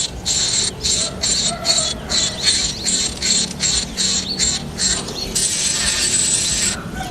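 Coucal chick giving harsh, hissing squawks, about three a second, then one longer drawn-out hiss about five seconds in.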